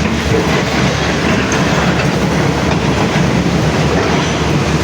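Heavy diesel engine running steadily under a loud, continuous mechanical rattle.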